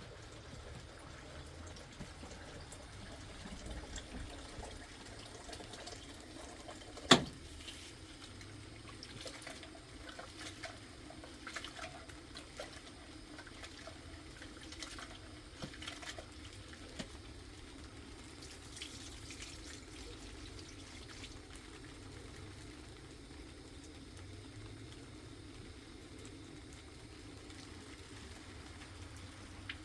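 Water running and splashing, with scattered light clatter and one sharp knock about seven seconds in.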